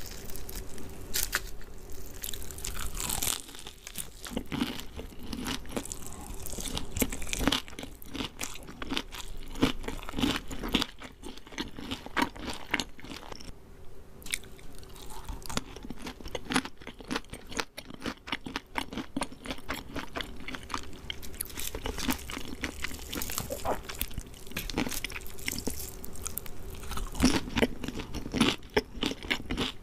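Close-miked chewing and biting of crispy KFC fried chicken, with a dense run of irregular crunches and crackles from the crust throughout.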